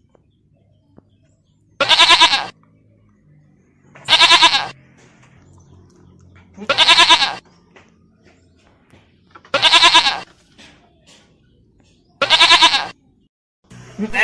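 Lamb bleating five times at even intervals of about two and a half seconds. Each call is a wavering bleat under a second long, and all the calls are alike. Another bleat begins right at the end.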